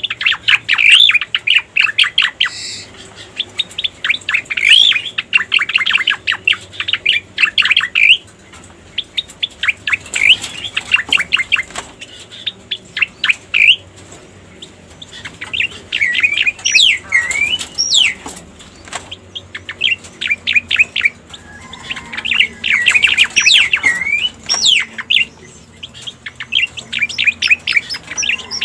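Recorded Cica Koreng song used as a lure call: phrases of rapid chattering chirps, with a few looping whistled notes, repeated again and again with short pauses between them.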